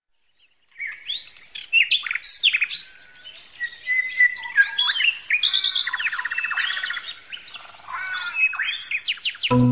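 Birds chirping, whistling and trilling in quick, varied phrases, starting about a second in. Music comes in at the very end.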